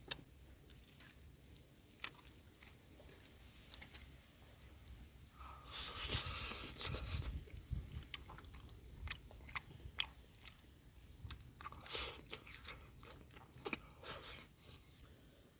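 A person biting and chewing crunchy food, with scattered sharp crunches and a louder, denser stretch of crunching about six to eight seconds in.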